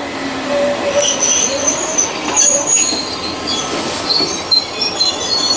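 Eizan Railway train squealing with several high, shifting metallic screeches as it comes to a stop.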